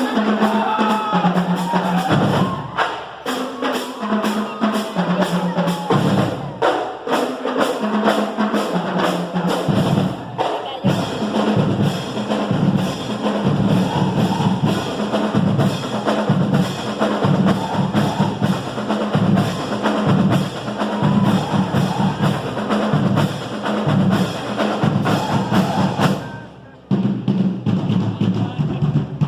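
Marching band playing, with a steady drumbeat under a stepping bass line and melody; it breaks off briefly near the end and starts again.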